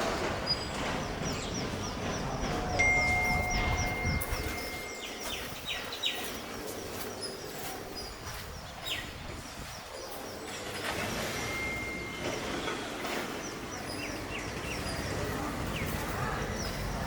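Several birds calling: quick runs of high chirps, a few sharp falling calls, and two long clear whistled tones.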